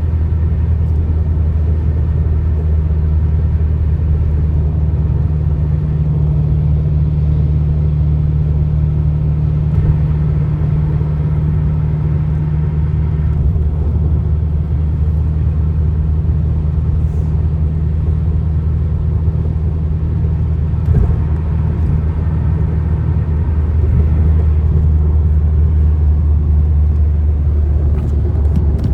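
Car driving at speed on a highway: steady low rumble of road and engine noise, with no break or change of pace.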